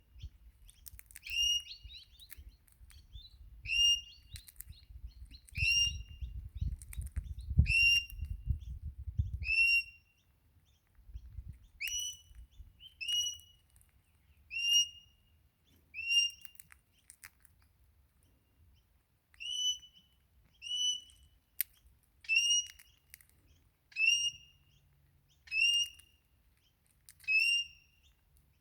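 Crimson rosella calling: short whistled notes, each bending down at the end, repeated about once every second and a half, with a pause of a couple of seconds past the middle. A low rumble lies under the first third.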